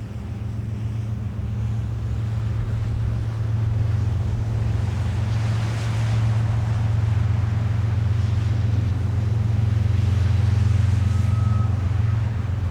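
A steady low engine hum, with a hiss that swells around the middle and again near the end.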